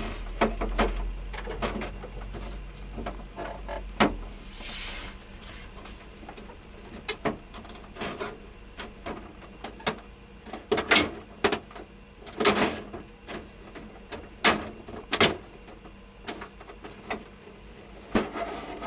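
Clicks and knocks of tools and parts being handled while working on a portable air conditioner after a refrigerant recharge. A low hum stops about four seconds in, followed by a short hiss.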